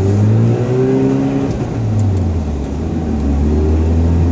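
Mazda RX-7's naturally aspirated 13B rotary engine revving under throttle, its pitch rising and falling twice.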